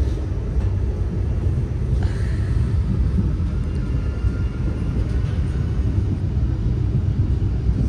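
Steady low rumble of a moving passenger train heard from inside the coach, wheels running on the track.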